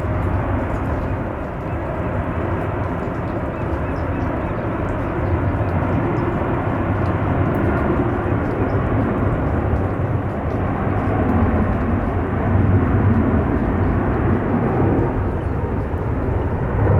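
Jet airliner engines, growing gradually louder as the plane comes closer, mixed with steady wind noise.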